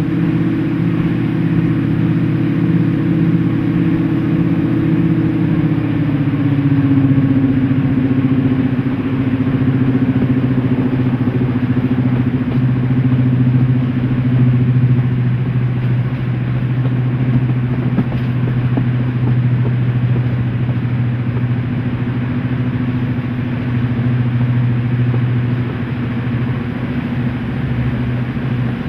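Class 55 Deltic locomotive 55022's twin Napier Deltic two-stroke diesel engines running steadily under power. The engine note drops slightly about six seconds in, then holds.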